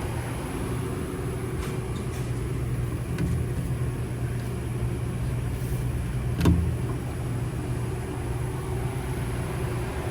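A steady low mechanical hum, with a single short knock about six and a half seconds in.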